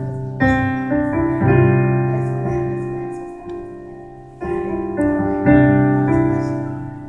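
Piano chords struck one after another, each ringing on and slowly fading, with a fresh group of chords starting a little past the middle.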